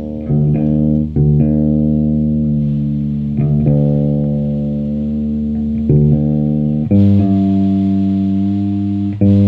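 Guitar playing during a sound check: held notes and chords with a heavy low end, each ringing for one to two seconds before the next is struck.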